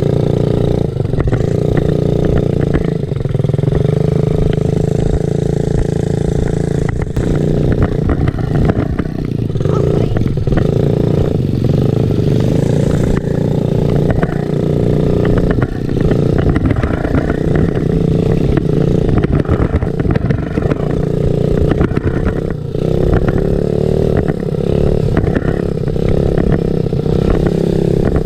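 Small dirt-bike engine running and revving up and down continuously, with a few clattering knocks along the way.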